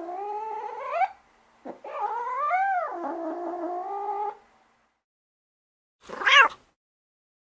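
Cats meowing: a drawn-out meow that rises in pitch and stops about a second in, then a long wavering yowl, then a short loud meow near the end.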